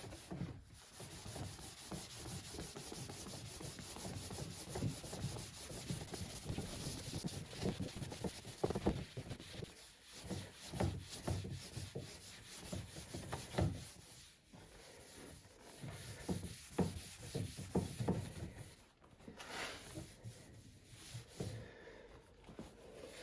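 Soft cloth buffing dried wax on a wooden desk surface: repeated rubbing strokes with a few short pauses.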